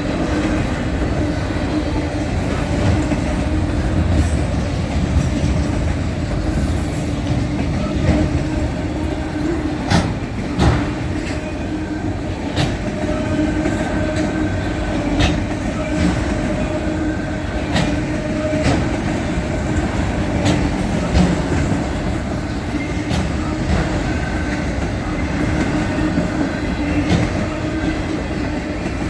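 Freight train of mostly empty cars, car haulers among them, rolling steadily past with a continuous rumble and a steady hum, its wheels clicking over rail joints at irregular intervals.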